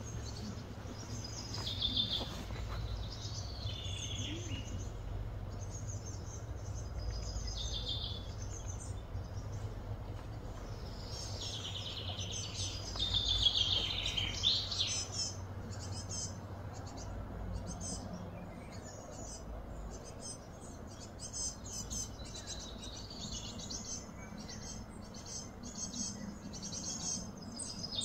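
Wild birds chirping and calling over a steady low hum, with the busiest calling about halfway through and rapid short chirps near the end.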